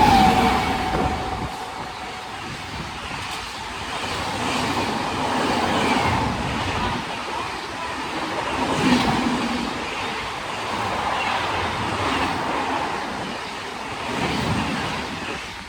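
A fast train passing through the station without stopping: its horn tails off in the first second, dropping slightly in pitch, then the coaches rush past, rattling over the rail joints with repeated swells of noise.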